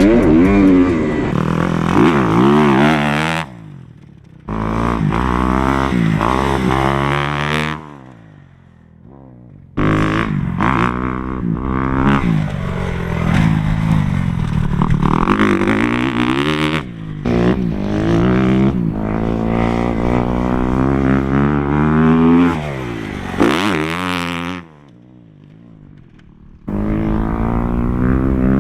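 Motocross bike engine revving hard and falling off again and again, rising and dropping in pitch through the gears. Three times the sound falls to a much quieter level for one to two seconds.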